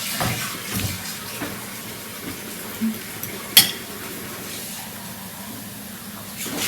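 Spoons and cutlery clinking and scraping against dishes while people eat, with scattered light knocks and one sharp clink about three and a half seconds in.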